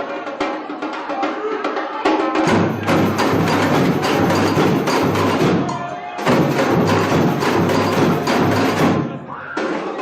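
Samba bateria, a drum-and-percussion ensemble, playing loudly with a dense rhythm of drums, sharp wooden-sounding hits and bells. The bass drums are out for the first two and a half seconds, then come in under the full group, pause briefly around six seconds, and drop out again near the end.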